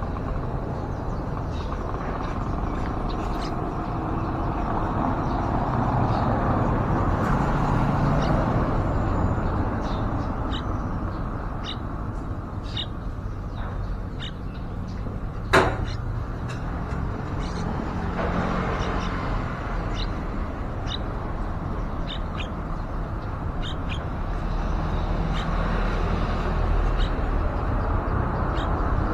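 Steady road traffic noise, rising and falling slowly, with short faint bird chirps scattered over it. One sharp click comes about halfway through.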